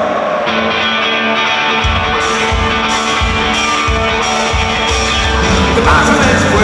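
Rock music with electric guitar chords; drums and bass come in on a steady beat about two seconds in, and a voice joins near the end.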